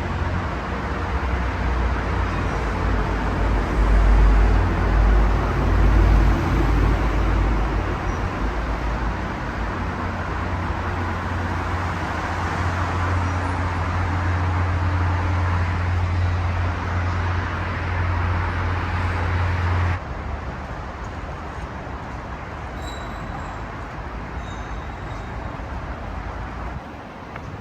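Steady rumble of vehicle noise with a strong low hum, swelling a few seconds in. About two-thirds of the way through it drops suddenly to a quieter, steady hum.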